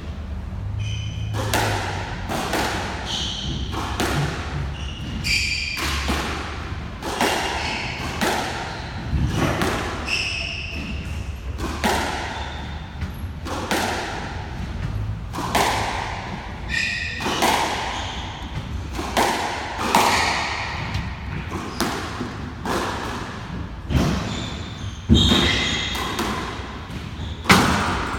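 Squash rally: the ball struck by rackets and smacking off the court walls, a long run of sharp hits about a second apart in a hall, with short high squeaks of shoes on the court floor between them.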